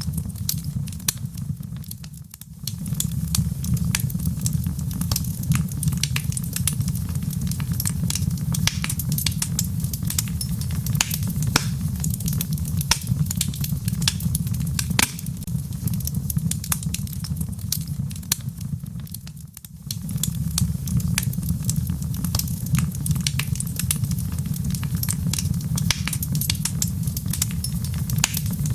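Wood fire burning in a fireplace: frequent sharp crackles and pops from the logs over a steady low rumble. The sound briefly drops away twice, about two seconds in and again near twenty seconds, then returns.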